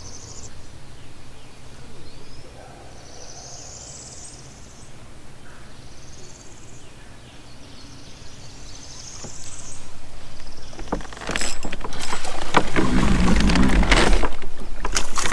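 Four short, high, buzzy calls a couple of seconds apart over a faint low hum; then, about eleven seconds in, loud rustling with sharp knocks and a low rumble close to the microphone, from the angler moving in his kayak.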